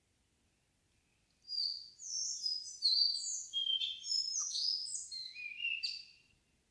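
A songbird singing one long, varied song phrase of quick whistled and trilled notes, starting about a second and a half in and lasting about five seconds.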